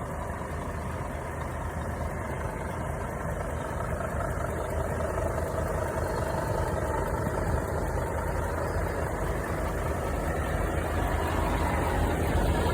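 Scania truck's diesel engine idling steadily, slowly growing louder.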